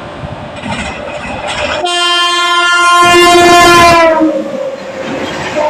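Indian Railways electric locomotive sounding its horn as a high-speed passenger train passes: one long blast starting about two seconds in and lasting about two seconds, its pitch dropping as the locomotive goes by, over the rumble and clatter of the train running on the rails.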